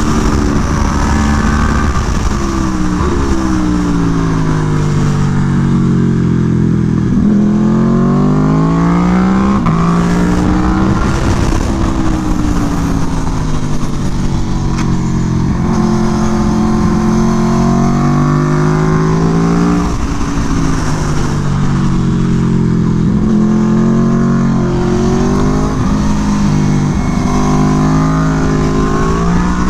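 Aprilia Tuono V4 1100's V4 engine through an SC Project exhaust, lapping a racetrack. The revs climb hard in short steps through quickshifted upshifts, then fall away through blipped downshifts, several times over. A low rush of wind sits beneath.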